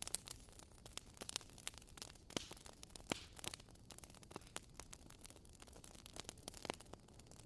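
Wood fire crackling: irregular small pops and snaps over a soft hiss, with one louder pop about three seconds in.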